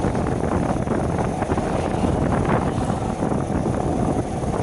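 Wind buffeting the microphone while riding a Shineray 50cc motorcycle, with the small engine and road noise running underneath.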